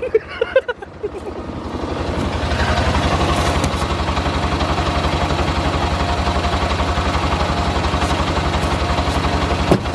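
A vehicle's engine that builds up over the first two seconds, then runs steadily with an even firing beat.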